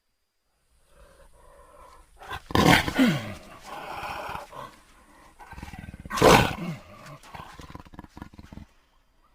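Jaguar calling: two loud, coarse roars about two and a half and six seconds in, each falling in pitch, with a run of rapid rasping pulses after the second one.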